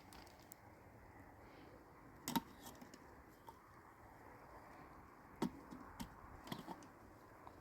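A few short, sharp clicks and knocks, one about two seconds in and a cluster of four near the end, over faint steady background noise.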